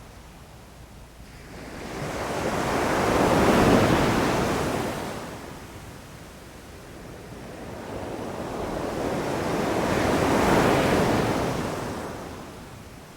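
Sea waves breaking on a shore: two waves in turn swell, crash and wash back, the first peaking about four seconds in and the second about ten seconds in.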